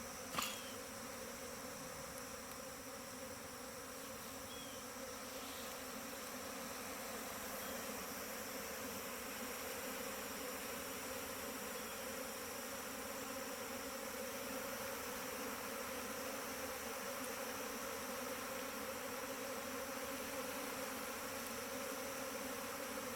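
A large honeybee swarm clustered on a branch, buzzing in a steady, dense hum. A single sharp click about half a second in.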